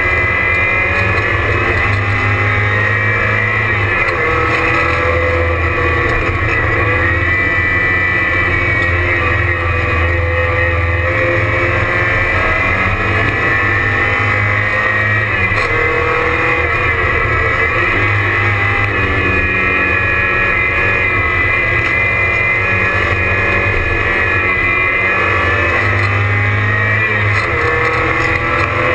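Porsche 944 race car's four-cylinder engine at full racing effort, heard loud from inside the stripped cabin, its revs climbing and dropping over and over through gear changes and braking for corners.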